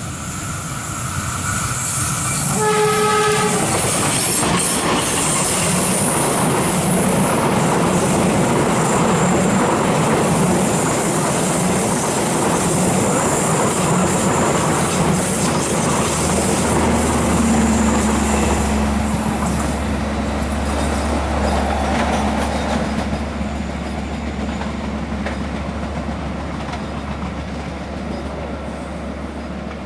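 Diesel-hauled passenger train passing close by: the locomotive's horn sounds once, briefly, about three seconds in. Then the long train rolls past with a steady rumble and clatter of wheels on rail. About seventeen seconds in, a deep steady engine hum joins, and the sound slowly fades near the end.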